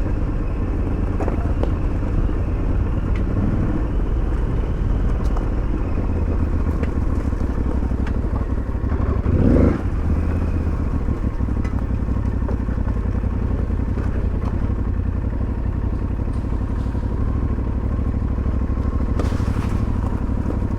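2022 Aprilia Tuareg 660's parallel-twin engine running steadily while riding, with a short louder surge about halfway through.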